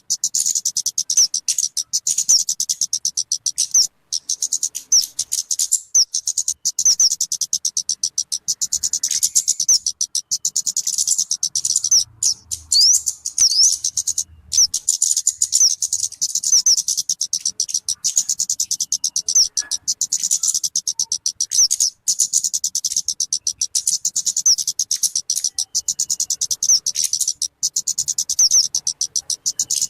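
Talokan (kemade) bird calling: a fast, unbroken run of short, high chirps, many to the second, with a few brief breaks.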